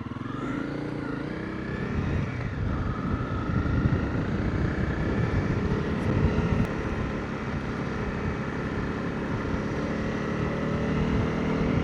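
Motorcycle engine pulling away, its pitch climbing for the first two seconds, then dropping and settling into steady riding, over rumbling road and wind noise.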